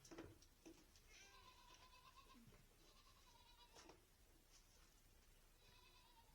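Goat kids bleating faintly, three drawn-out calls, crying for their mothers, from whom they were separated overnight for milking. A few soft knocks sound between the calls.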